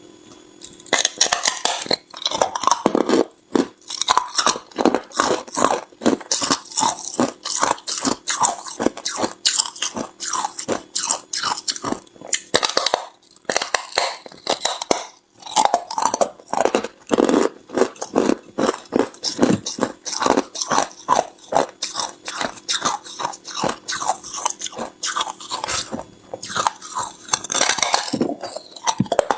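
A person biting and chewing hard ice close to the microphone: a dense run of loud, sharp crunches, several a second, with a few brief pauses.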